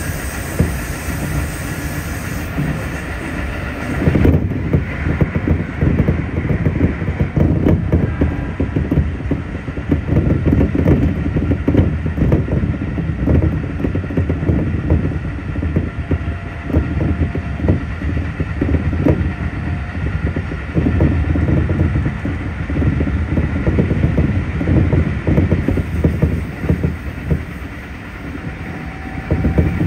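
Running noise of a Keikyu 1500 series field-chopper train heard from inside the car: motors and steel wheels rumbling on the rails. About four seconds in it grows louder and more enclosed as the train enters a tunnel, and it opens out again near the end as the train comes back into the open.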